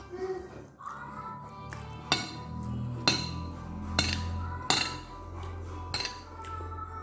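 Cutlery clinking against a plate about four times while eating, over steady background music.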